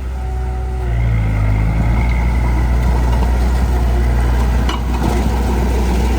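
Heavy diesel engine of earthmoving machinery running steadily with a deep, low hum, and one short knock a little under five seconds in.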